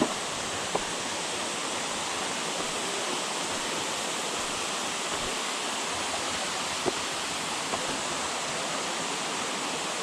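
Steady rushing of water, like a waterfall or stream, with a few short clicks.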